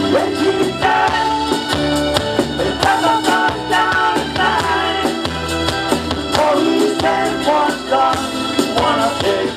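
Live band playing music, with a singing voice and a steady drum beat.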